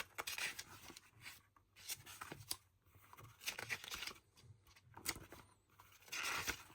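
Quiet rustling of glossy paper pages being turned and handled, in a few short scattered bursts with light clicks.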